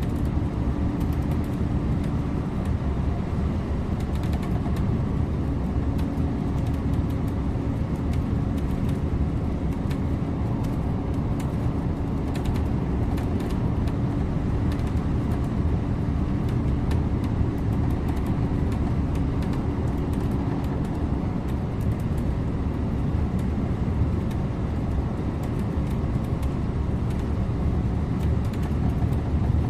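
Scania InterLink bus driving along, with steady engine and road noise. A steady whine runs through it and stops about two-thirds of the way through, and there are faint scattered ticks.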